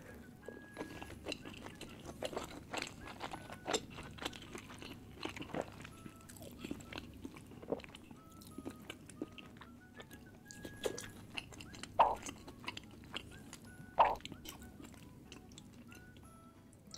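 Close-miked chewing and biting of soft bread and chicken keema, with irregular small crunches and mouth clicks and two louder bites later on. A soft background melody plays faintly underneath.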